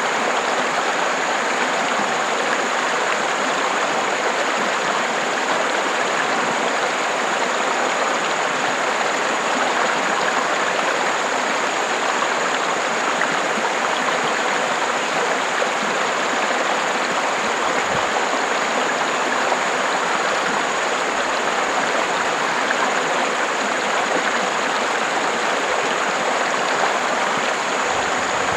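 River water flowing and rushing steadily, an even, unbroken rush.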